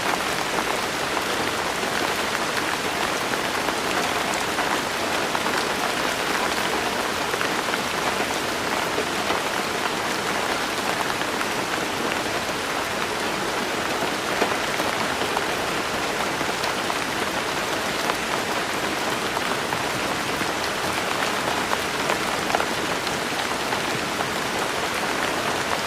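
Steady rain falling on a surface, a dense even patter with scattered individual drop ticks.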